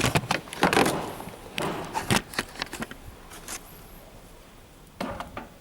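Irregular clicks, knocks and scraping from parts and tools being handled in a car's engine bay, with a short burst of knocks again about five seconds in.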